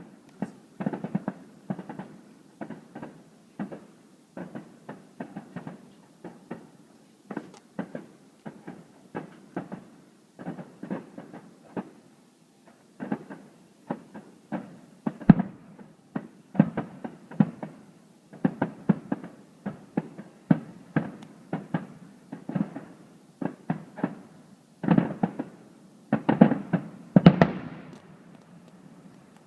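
Aerial fireworks bursting in quick succession, a sharp bang about every second or so, with a dense run of louder bangs near the end.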